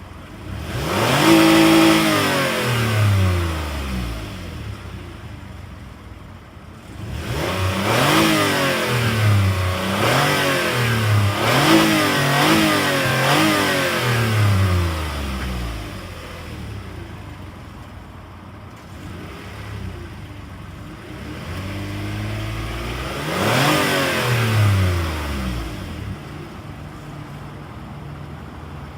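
Toyota 2GR-FE 3.5-litre V6 revved while parked, rising and falling back to idle: one rev at the start, a run of about five quick blips in the middle, then one more rev near the end, idling in between.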